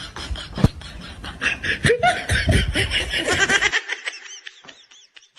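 Rapid, repeated bursts of laughter. A background hiss cuts off abruptly about two-thirds of the way in, and the laughter carries on without it.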